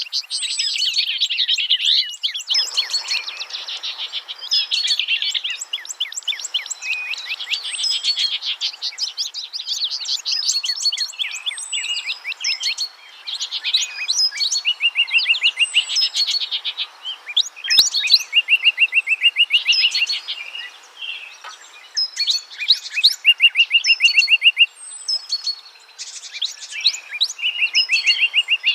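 Several songbirds singing and chirping at once in a busy chorus, including fast trills of quickly repeated high notes, over a faint steady rush of running water.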